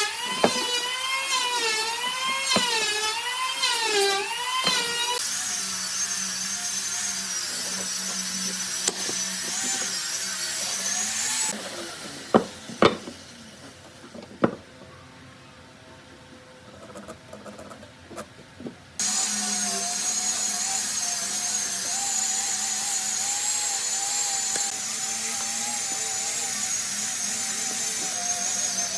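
High-pitched power tool working wood: its whine wavers up and down in pitch at first as it bites, then holds steady. About twelve seconds in it stops, leaving a few sharp knocks, and it starts again and runs steadily.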